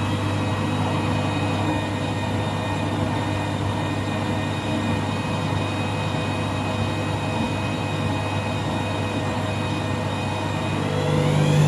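Washing machine drum motor running with a steady whine and hum. About eleven seconds in, the whine starts rising in pitch and getting louder as the drum speeds up toward a spin, in a machine overdosed with washing powder.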